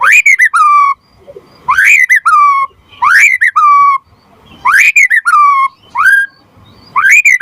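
White-rumped shama (murai batu) singing loudly: the same whistled phrase about six times, each a quick rising note followed by a lower held note.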